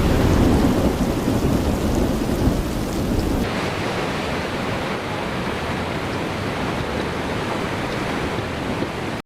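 Heavy rain with rumbling thunder, a dense steady roar. About three and a half seconds in it changes to a duller, thinner rain sound, and it cuts off suddenly at the end.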